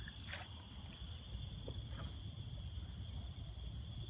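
Crickets or similar field insects chirring in a continuous high-pitched trill, over a faint low rumble.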